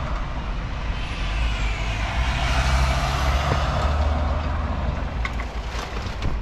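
Heavy truck driving past, its engine a low rumble that swells towards the middle, with a faint whine sliding in pitch as it goes by. A few light clicks near the end.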